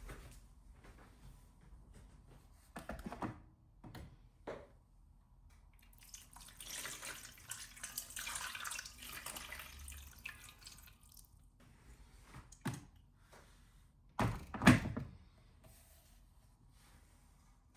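Kitchen handling sounds: a few light knocks, a tap running into a sink for about four seconds, then a louder thunk of something set down.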